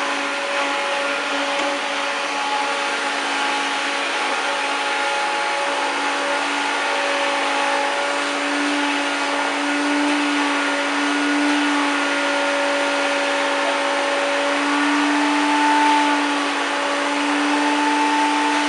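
1993 Hoover Turbopower 1000 U2814 upright vacuum cleaner running steadily on sofa upholstery, its motor whine wavering slightly in pitch as the load on the suction changes.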